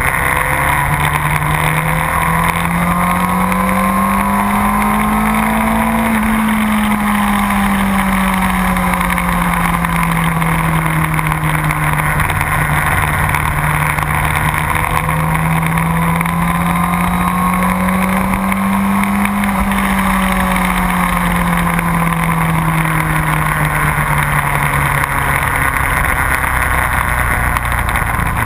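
Sport motorcycle engine on track, its pitch climbing slowly and falling back twice as the bike accelerates and slows, under a heavy rush of noise.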